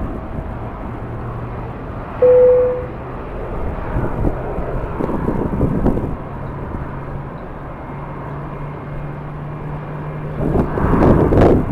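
Airport ambience of aircraft engines running with a low steady hum under a rushing haze, and gusts of wind buffeting the microphone, strongest near the end. About two seconds in there is a short, loud single beep.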